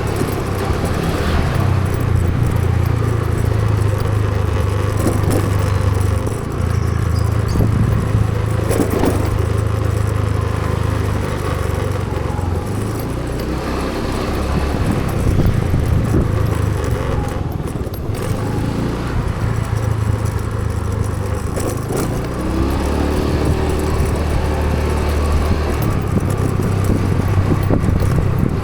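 Motor vehicle running with road noise: a steady low engine drone that fades and comes back several times.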